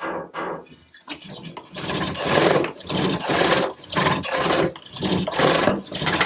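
Hook tool cutting a large green walnut bowl on a pole lathe: rhythmic rasping cuts, about one a second and each about half a second long, louder from about two seconds in.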